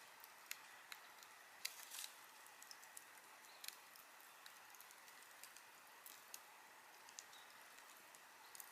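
Campfire burning quietly: a soft steady hiss with irregular sharp pops and snaps of burning wood, the loudest cluster about two seconds in.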